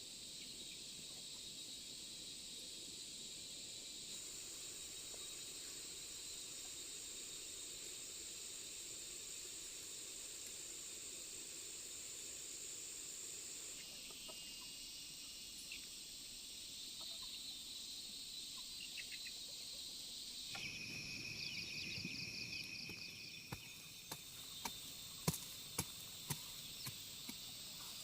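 Crickets and other insects chirring in a steady, high, continuous drone. About twenty seconds in the sound changes to a different, pulsing insect call, and near the end a series of sharp knocks begins.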